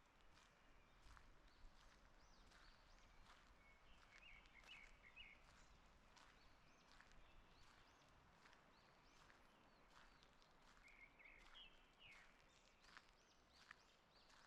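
Faint songbirds chirping and calling in woodland, with short phrases that come and go and a brighter trill a few seconds in and again near the end. Scattered faint soft ticks sound beneath them.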